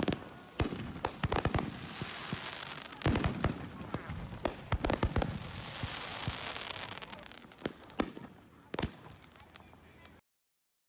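Fireworks going off: a dense string of sharp bangs and crackling that cuts off abruptly near the end.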